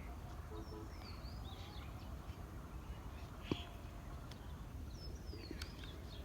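Birds calling in short, high, falling whistles, twice, over a steady low rumble, with a single sharp click about halfway through.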